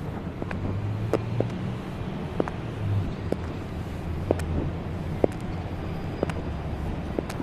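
High-heeled shoes clicking on pavement in a steady walking rhythm, about one step a second, over the low hum of car traffic.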